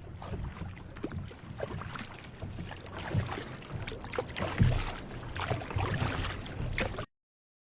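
Kayak paddle strokes splashing through seawater in a steady, irregular wash of water noise, with a low rumble underneath. Near the end the sound cuts to dead silence for a moment.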